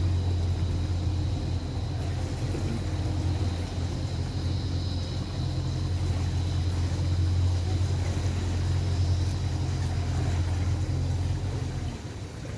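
Tour boat's motor running steadily: a constant low hum with a faint high whine, easing off slightly near the end.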